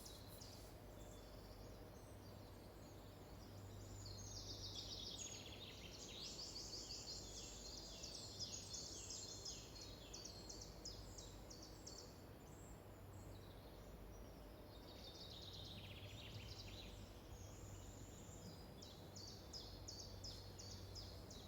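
Faint forest ambience: small birds chirping in rapid high trills and phrases over a steady low hum.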